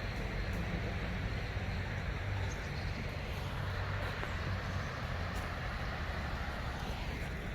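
Steady rush of flowing stream water, with wind buffeting the microphone as a low rumble.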